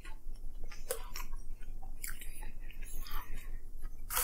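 Close-up chewing of fried chicken nuggets: soft irregular mouth clicks and smacks.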